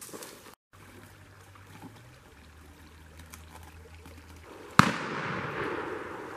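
A single shotgun shot about three-quarters of the way in, sharp and loud, with an echo trailing off over a second or so.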